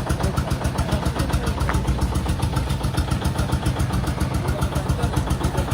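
An engine idling steadily with an even, rapid pulsing beat. A single light click sounds a little under two seconds in.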